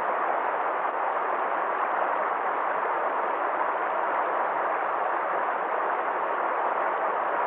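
Water rushing steadily down a valley stream, a continuous even rush with no breaks.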